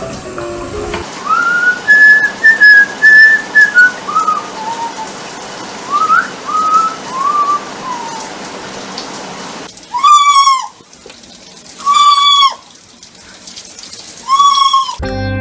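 Pet parrot whistling a string of clear, gliding notes over a steady hiss, followed by three loud calls about two seconds apart.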